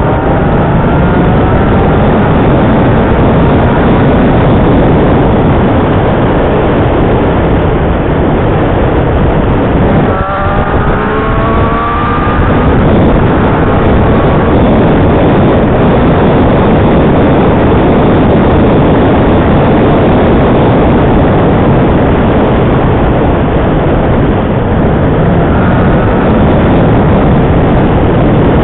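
Yamaha Niken three-wheeled motorcycle ridden at road speed: loud, steady wind and road noise over the engine. The engine note rises in short glides near the start and again about ten seconds in.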